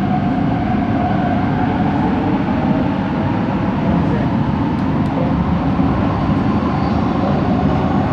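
Light rail train running, heard from inside the car: steady rolling and running noise with a wavering motor whine. This is the unusual motor noise that the recordist traced to coach 4 of the set.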